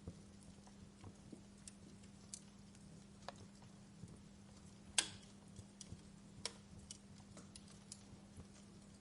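Wood fire crackling: burning logs give off scattered small pops and snaps at irregular intervals, with one sharper, louder pop about halfway through. A faint steady low hum runs underneath.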